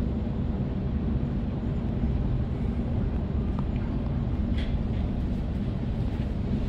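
Steady low rumble of an electric suburban train running along the track, heard from inside the carriage, with a faint click or two.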